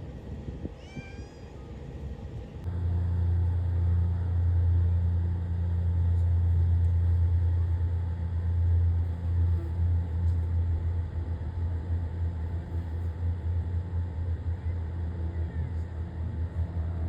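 A light aircraft's piston engine running steadily with a low hum that starts suddenly about three seconds in, after a few short, high chirping calls.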